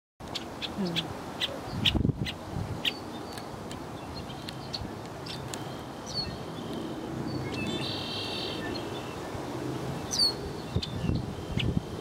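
Wild birds calling: short sharp chirps repeated throughout, a down-slurred whistle twice, and a buzzy trill about eight seconds in, over a low rumble that swells around two seconds in and near the end.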